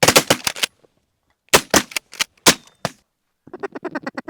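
Volley of shotgun blasts from several duck hunters firing together at incoming ducks: about a dozen shots in two quick bursts. Near the end comes a fast run of short pitched sounds.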